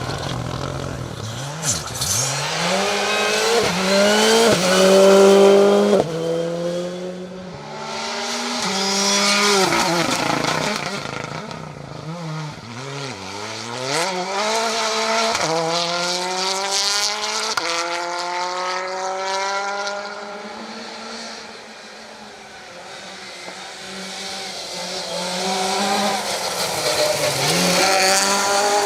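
Rally car engines revving hard on a special stage, each note climbing and then dropping sharply at every gear change, with some tyre squeal. The sound swells and fades as cars pass.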